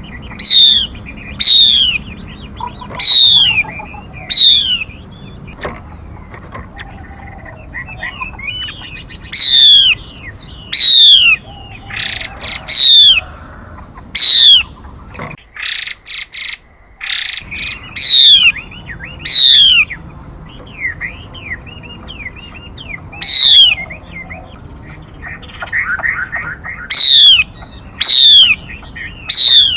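Recorded calls of a female songbird played as a trapping lure: loud, sharp whistled notes that sweep steeply down in pitch, repeated a dozen or more times, often in close pairs. Softer calls of other birds sound in between.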